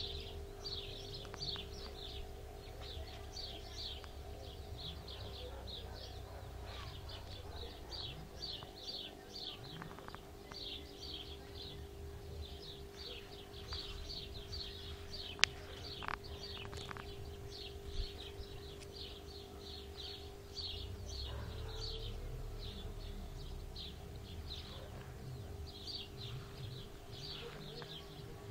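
Small birds chirping, short high notes repeating several times a second in runs, over a steady low hum and a low rumble. A single sharp click about fifteen seconds in.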